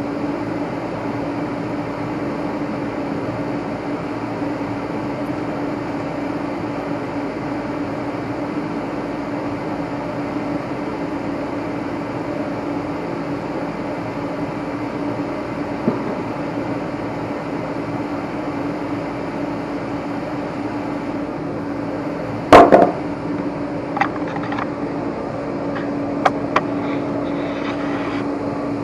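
A steady mechanical hum at one even pitch. About three-quarters of the way in there is a sharp clatter, followed by a few scattered clicks near the end.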